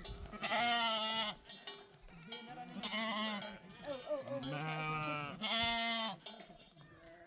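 Sheep bleating: four quavering calls of about a second each, one deeper than the others, with a few short clicks between them.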